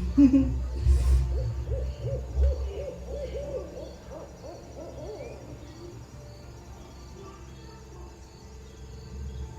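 A bird giving a quick run of short hooting notes, a few a second, that fades out after about five seconds.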